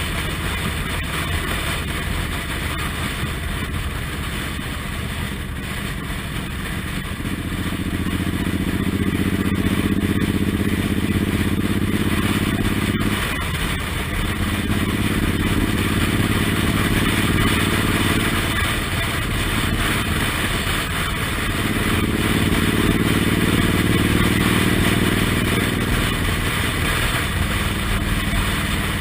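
Suzuki Intruder M1800R's big V-twin engine running on the road, heard from the bike, pulling harder in three stretches and easing off in between, over steady road and wind noise.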